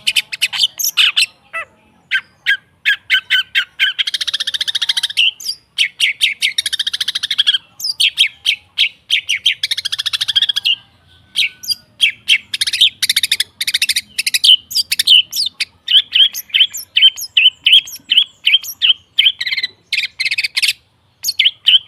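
Long-tailed shrike singing a fast, varied song of sharp, rapid notes broken by harsh, scratchy chattering passages; later it settles into a regular string of short, repeated notes, about three a second.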